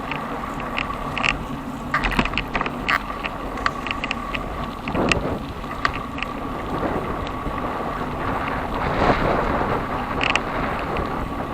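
Bicycle in motion: irregular rattling and clicking of the bike's parts over a steady rolling noise, with wind buffeting the microphone in swells.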